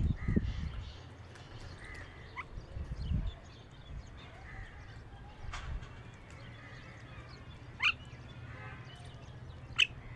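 Birds calling: scattered faint chirps and two short, sharp calls about eight and ten seconds in, over a low steady hum.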